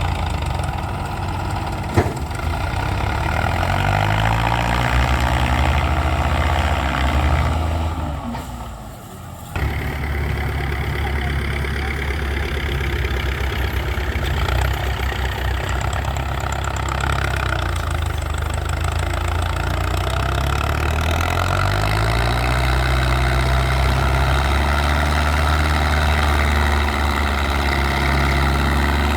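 Tractor engine running, its pitch rising as it revs and falling back several times. About eight seconds in, the sound drops away for a second or so, then returns steadily, with another rise in pitch near the end.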